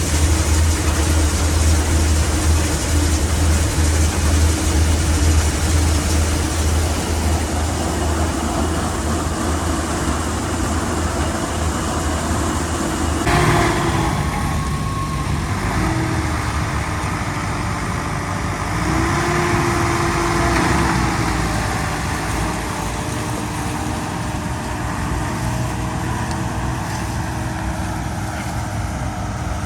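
Farm tractor engine running steadily with a heavy low hum. About halfway through the sound changes abruptly to a different steady engine noise.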